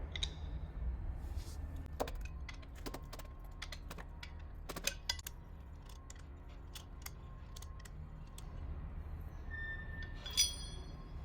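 Light metallic clicks and clinks of tools and bolts being handled while the custom drive plate is unbolted from the accumulator end cap. One louder metal clink rings briefly near the end, over a low steady workshop hum.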